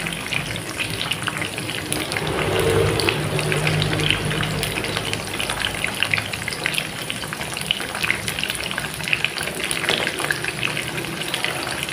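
Corn ribs deep-frying in hot oil in a wok, a steady sizzle with a dense fine crackle and light ticks as the pieces are turned with metal spatula-tongs. No loud popping or spattering, which the cook puts down to the corn having been dried after washing.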